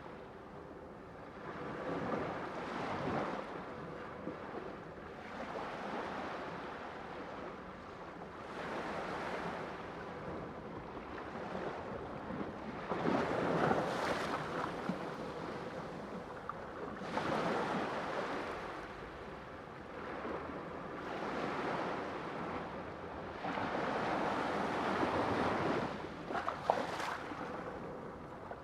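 Sea waves washing onto a shore, swelling and ebbing in a surge about every four seconds.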